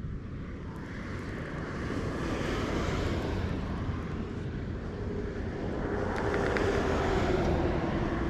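Engine drone of a passing aircraft-like motor, slowly growing louder, with a steady hum coming in about five seconds in.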